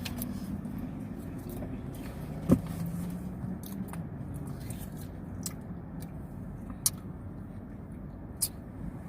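Steady low hum of a car heard inside the cabin, with a few sharp plastic clicks as a ranch dipping-sauce cup is opened and handled. The loudest click comes about two and a half seconds in, and two smaller ones come near the end.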